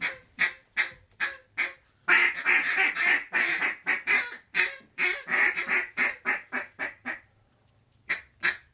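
A mallard duck call blown in a long series of hen quacks, about two or three a second, with a faster run of quacks about two seconds in. The calling pauses for a moment near the end, then starts again.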